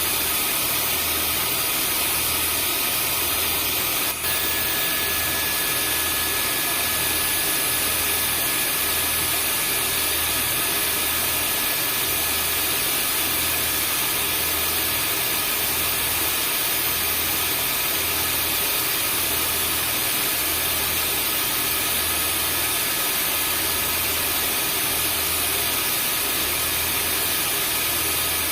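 Vacuum cleaner running steadily: an even rushing noise with a fixed high whine and a low hum that throbs about once a second. A brief click comes about four seconds in, and a further whine tone joins after it.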